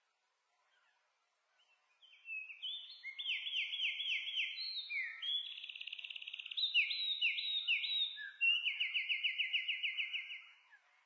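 A songbird singing a long, varied song of quick repeated falling notes and fast trills, starting about two seconds in and stopping near the end.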